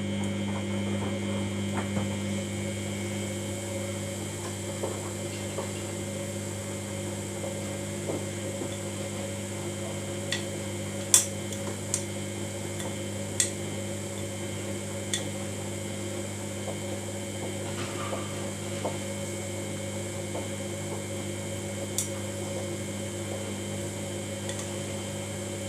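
Samsung washing machine running in service mode with a steady hum that holds one pitch, and a few sharp light clicks scattered through the middle.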